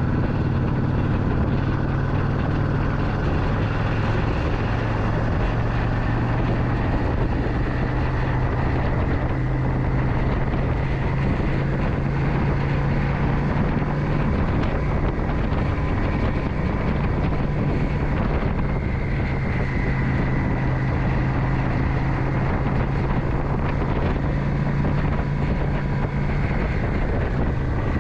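Motorcycle engine running at a steady cruising speed while riding, with wind rushing over the microphone; the engine note eases off briefly about halfway through, then picks up again.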